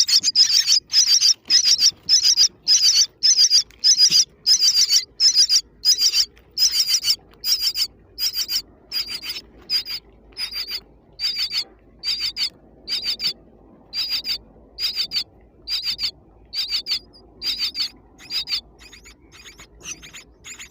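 Baby birds calling, short high chirps repeated about twice a second, growing fainter over the second half.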